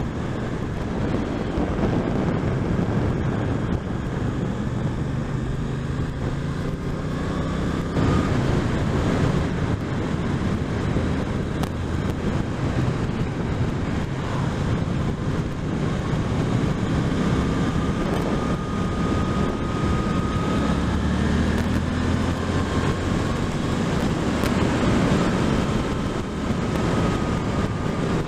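Suzuki GSX-8S's 776 cc 270° parallel-twin engine under way, its revs rising several times as the bike accelerates through the gears. Wind noise buffets the microphone.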